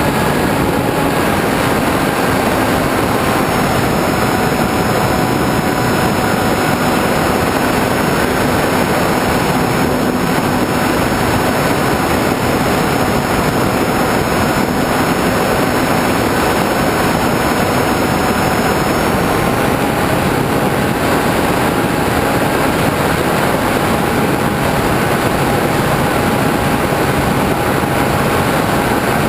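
RC model airplane's motor and propeller running steadily, heard from the onboard camera under loud wind rush. The propeller's tone drops slightly a couple of seconds in and rises back about two-thirds of the way through as the throttle changes.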